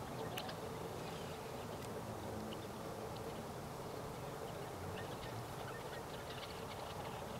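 Scattered short, high bird calls over a steady low background noise.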